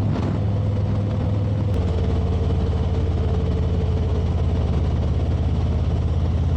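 Motorcycle engine running steadily at cruising speed, with a change in its note about two seconds in.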